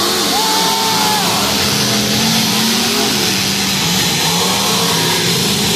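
Several demolition derby cars' engines running and revving at once, loud and steady, over the noise of the grandstand crowd.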